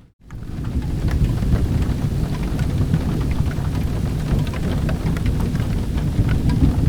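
Steady rain with a continuous low rumble of thunder, dotted with scattered sharp ticks and crackles. The sound cuts out briefly at the very start and fades back in within half a second.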